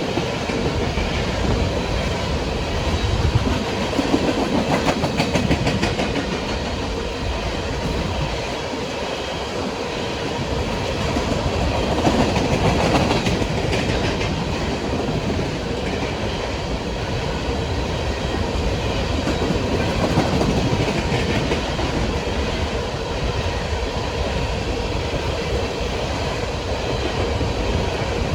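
Empty coal cars of a unit coal train rolling past at track speed: a steady rumble of steel wheels on rail, with runs of rhythmic clicking as the wheels cross rail joints.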